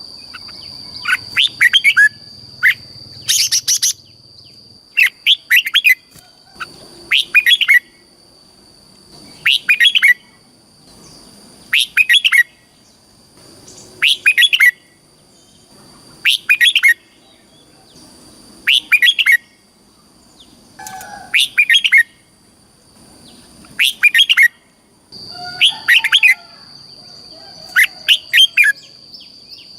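Red-whiskered bulbul singing, repeating a short phrase of several quick notes about every two seconds. A steady high thin tone runs underneath.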